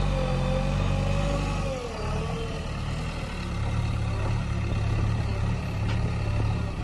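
Heavy diesel engines of a backhoe loader and tractor running at work, a steady low rumble. A wavering whine rides over it for the first two seconds or so.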